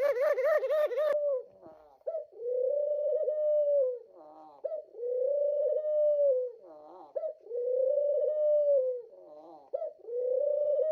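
A dove cooing: a quick wavering run of coos, then four long drawn-out coos, each set off by a short note.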